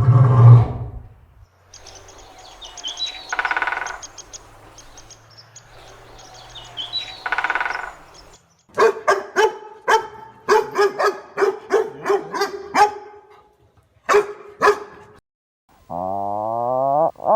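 Dog barking in a quick run of about ten short barks, then two more. Before the barking comes a stretch of hissing noise with a few chirps and two short calls; near the end there is a smooth rising-then-falling pitched glide.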